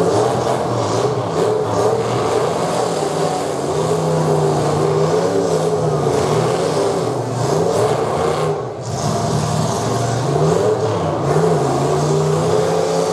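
Demolition derby car engines revving hard, the pitch rising and falling over and over as the cars throttle up in the dirt arena.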